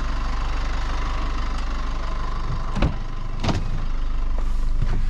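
Tow vehicle's engine idling steadily, heard from inside the car, with two short knocks a little over halfway through.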